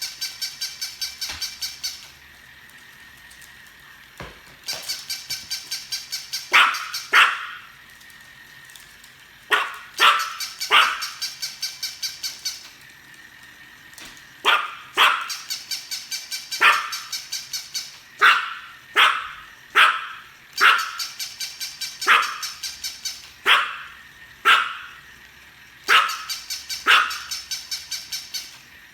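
A dog barking in short single and paired barks every second or two. In the first half a fast, even train of high-pitched chirps runs alongside.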